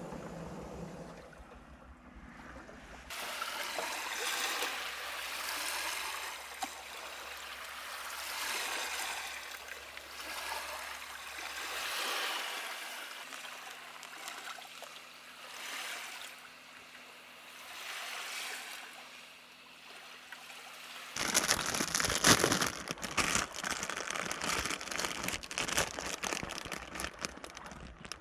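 Small waves lapping on a lakeshore, the wash swelling and falling every couple of seconds. About three quarters of the way through, it gives way to a louder, dense crackling and rustling.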